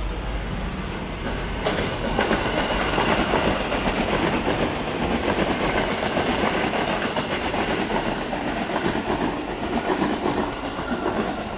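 KRL Commuterline electric multiple-unit train passing close by, its wheels running over the rails with a repeated clatter. The noise builds sharply about two seconds in and stays loud while the cars go by.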